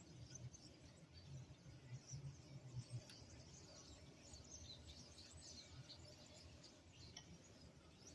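Faint chirping of small birds: many short, high-pitched chirps, busiest in the middle, over a low rumble.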